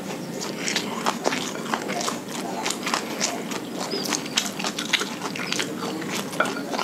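Close-miked chewing of a mouthful of fried rice, with many small mouth clicks and lip smacks, several a second.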